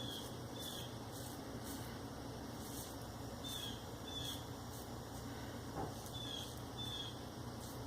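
Safety razor (Maggard V3A with a Shark Super Chrome blade) scraping through lathered facial stubble in short, faint, irregular strokes.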